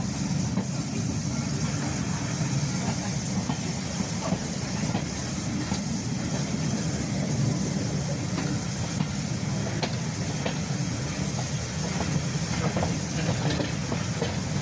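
Railway passenger carriage running slowly along the track, heard from an open carriage window: a steady low rumble of the wheels with a high hiss, and scattered sharp clicks as the wheels cross rail joints and points.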